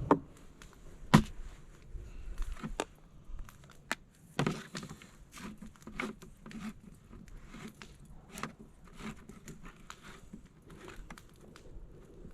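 Hand can opener clicking and crunching as it is worked around a tin can, with a few sharp metal knocks, the loudest about a second in.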